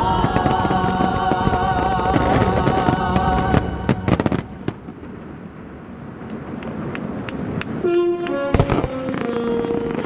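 Show fireworks bursting and crackling in quick succession over loud soundtrack music. The music fades out about four seconds in and a new passage begins near eight seconds, with more bangs.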